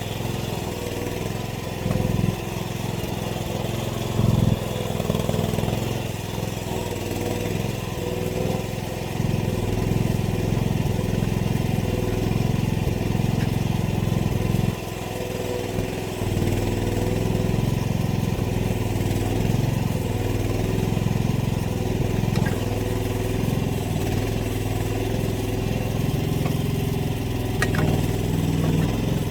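Mini excavator engine running steadily while it works, its level rising and falling as the load changes, with brief louder surges about two and four seconds in.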